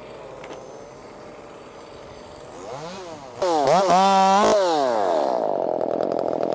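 Small two-stroke chainsaw engine starting about three seconds in, revving up hard and dropping back, then running steadily at high speed.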